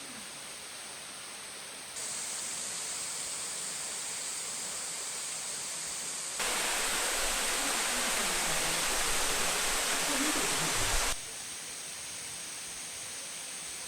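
Waterfall rushing, a steady hiss of falling water. It gets abruptly louder about two seconds in, louder again at about six seconds, and drops back down near eleven seconds.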